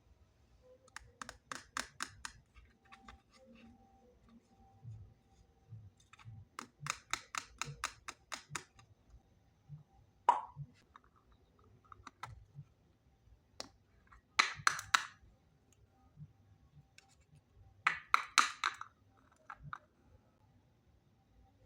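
Small plastic toy-kitchen pieces being handled, giving runs of rapid light clicks and taps, with two short rattling bursts in the second half.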